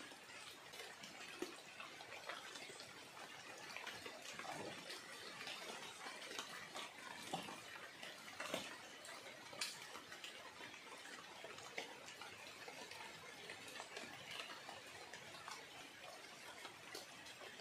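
Rain falling on the surface of a flooded river and the leaves around it: a faint steady hiss with scattered sharp ticks of single drops.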